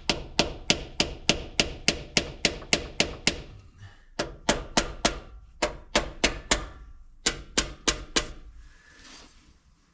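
Rapid metal-on-metal tapping, about four sharp ringing strikes a second, in runs broken by short pauses, stopping about a second and a half before the end.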